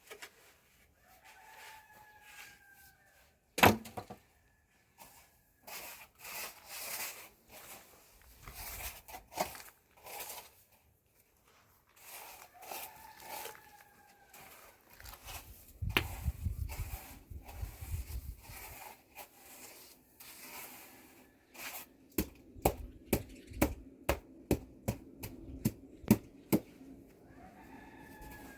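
A rooster crowing three times, each crow a falling call of about two seconds. Between the crows there are scattered sharp knocks and rustling, with a quick series of knocks, about two a second, near the end.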